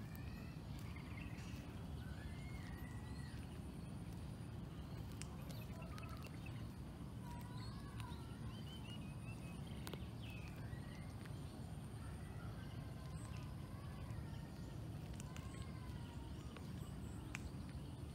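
Birds calling with many short warbling chirps scattered throughout, over a steady low outdoor rumble and a thin, steady high-pitched whine.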